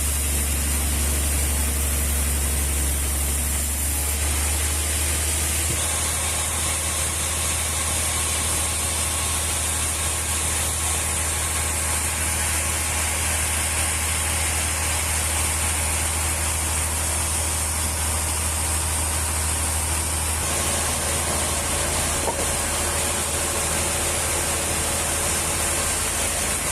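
Sawmill machinery running steadily, with a strong low hum under a high hiss. Its tone changes slightly about 5 seconds in and again about 20 seconds in.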